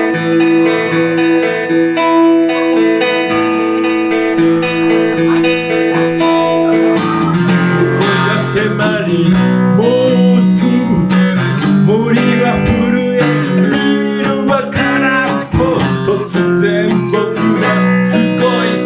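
Electric guitar playing an instrumental break through a Roland JC-120 amp. It holds sustained chord tones for about the first seven seconds, then moves into a busier lead line with bent notes.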